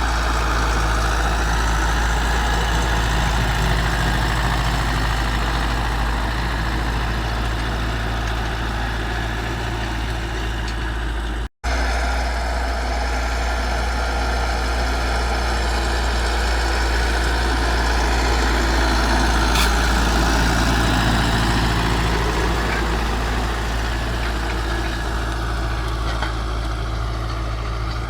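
Zetor 9540 tractor's four-cylinder turbo diesel engine running steadily under load while pulling a stubble cultivator. About eleven seconds in, the sound cuts out for an instant, then carries on unchanged.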